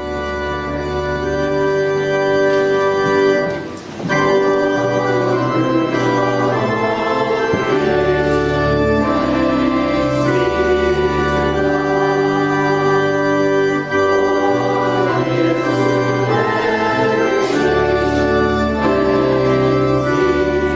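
Organ playing slow, sustained chords over a bass line that moves every second or two, swelling in at the start, with a brief drop just before four seconds in.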